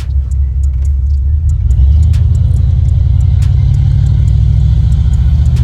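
A car driving, with a steady low engine and road rumble that gets louder about two seconds in as it picks up speed.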